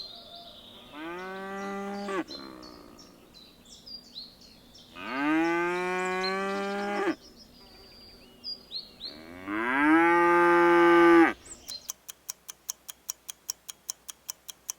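A cow mooing three times, each a long, low call of about two seconds. Near the end the mooing gives way to a steady, rapid clock-like ticking, about four or five ticks a second.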